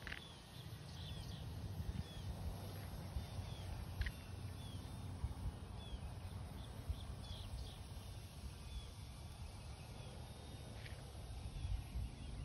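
Small birds chirping: many short, high, falling chirps scattered throughout, over a steady low rumble of wind on the microphone.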